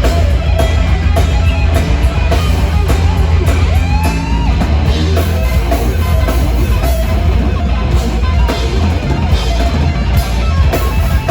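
Metal band playing live: heavy distorted electric guitars and bass over a drum kit, loud and continuous.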